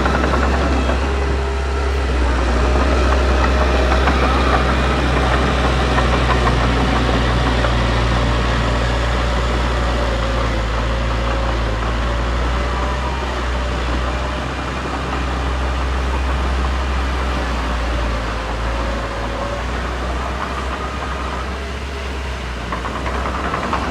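Diesel engine of heavy earthmoving machinery running steadily, a deep drone with faint wavering higher tones above it; it eases off slightly about 14 and 22 seconds in.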